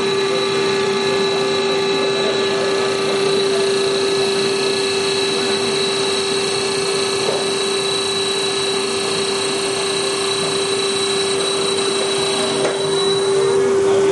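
Hager HD300A-CNC computer-controlled wood lathe running with a steady whine. Its higher tones drop away near the end.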